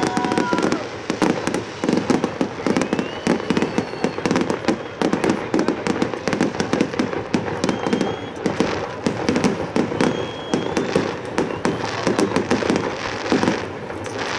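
Aerial fireworks display: a dense, continuous barrage of shell bursts and crackling, many reports a second.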